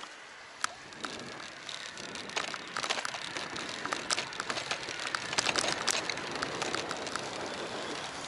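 Riding noise of a bicycle as picked up by its action camera: a steady hiss of tyres on the road with frequent sharp clicks and rattles, which get busier and louder about two and a half seconds in.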